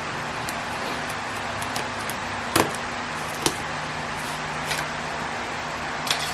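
Electric fan running with a steady whooshing hum, over which a few sharp clicks and taps of a package being handled sound, the loudest about two and a half seconds in and again a second later.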